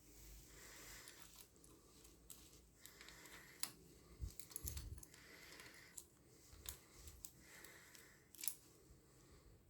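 Near silence, broken by faint, scattered clicks and light taps of metal engine parts being handled while the timing chain and cam sprocket are set in position.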